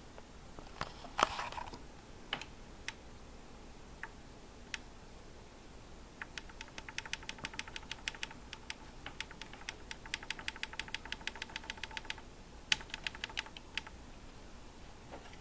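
Keyboard keys clicking: a few separate presses, then a fast run of rapid key presses lasting about six seconds, and a short burst near the end. A faint steady whine sits under the fast run.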